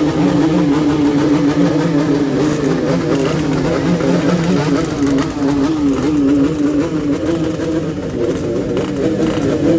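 Two-stroke motorcycle engine revved in a blayer contest, running loud and steady at high revs with its pitch wavering slightly.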